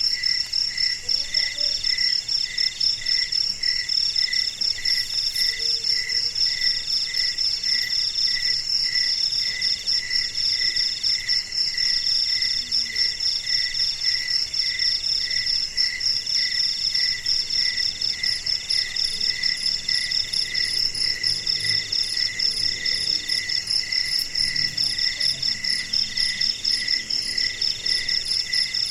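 A chorus of crickets calling at night. Several callers overlap: a high, fast, unbroken trill, a lower chirp about twice a second, and a middle trill in phrases of about a second that repeat with short gaps.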